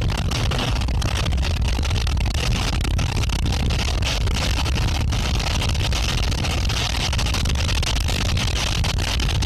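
Storm rain and wind: a steady rushing hiss over a deep, continuous low rumble.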